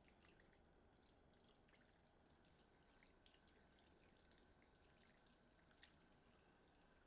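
Near silence: faint room tone with scattered small clicks and ticks, the sharpest one a little before six seconds in.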